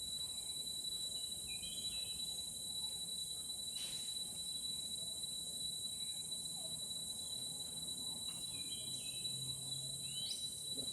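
Rainforest insects calling steadily: one unbroken high-pitched tone over a higher, hiss-like insect chorus, with a few short bird chirps about two seconds in and again near the end.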